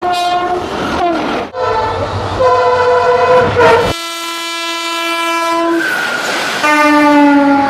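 Train horn sounding in several long, loud blasts that shift in pitch, with a low train rumble underneath for the first four seconds.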